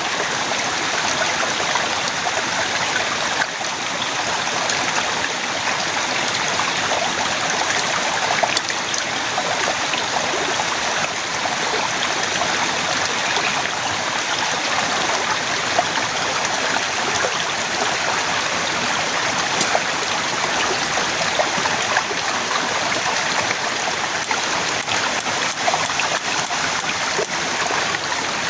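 Heavy rain falling steadily, a constant hiss of downpour with the odd louder drop.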